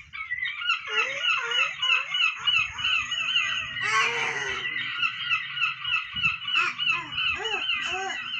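A flock of birds calling over one another, a dense chatter of short honking calls repeated several times a second.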